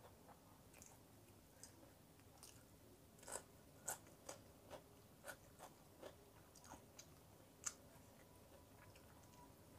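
Faint chewing and crunching of a person eating. Short, irregular clicks and crunches come in quick succession, the sharpest about four seconds in and near eight seconds.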